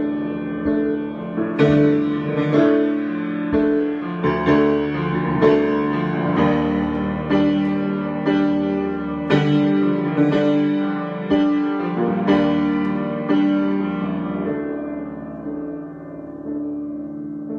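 Slow, improvised solo piano: notes and chords struck about once a second over held tones, growing softer in the last few seconds.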